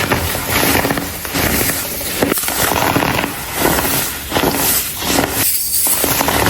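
Blocks of dyed, baked baking soda crumbling and crunching under fingers: a dense, continuous crackle of many tiny snaps, easing briefly about once a second.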